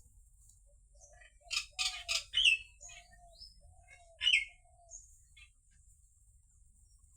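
Birds calling: a quick cluster of loud sharp chirps, some sweeping down in pitch, about a second and a half in, then a single loud chirp about four seconds in and scattered fainter calls.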